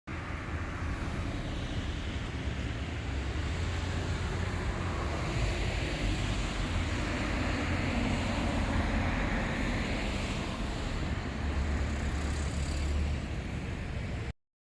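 Steady road traffic noise with a low rumble, which starts abruptly and cuts off suddenly near the end.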